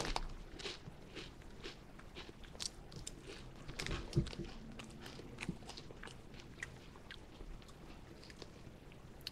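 A person crunching and chewing a potato chip close to the microphone: a run of irregular crisp crunches, thickest in the first half with the loudest about four seconds in, thinning out toward the end.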